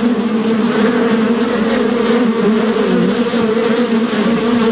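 Insects buzzing: a loud, steady drone that wavers slightly in pitch.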